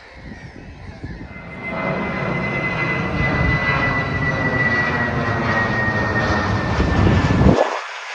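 Aircraft flying over: a rushing engine noise that swells about two seconds in, with a thin high whine falling slowly in pitch. The low rumble cuts off abruptly near the end.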